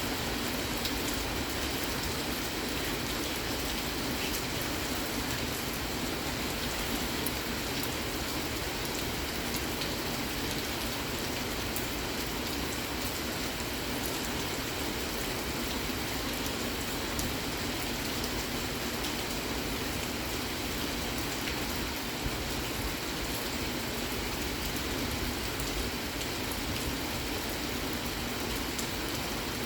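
Steady rain falling, with a dense patter of drops on surfaces.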